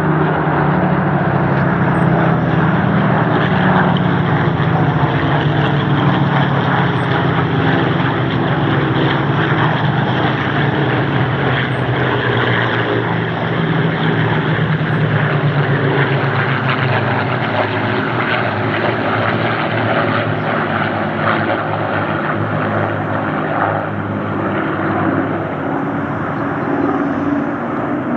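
Supermarine Spitfire flying past, its V12 piston engine running steadily. The engine's pitch slides slowly lower over about the first fifteen seconds.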